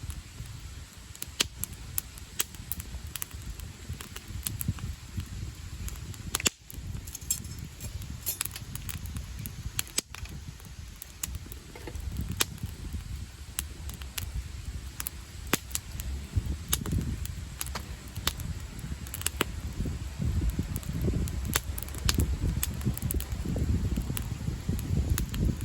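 Wood campfire crackling, with sharp pops and snaps coming at irregular intervals over a low rumbling noise.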